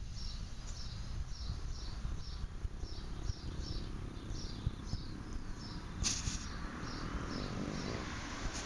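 A small bird chirping in short, falling high notes, about two or three a second, over a steady low rumble. About six seconds in there is a sharp click, and from then on a French bulldog snuffling with its nose pressed into the soil.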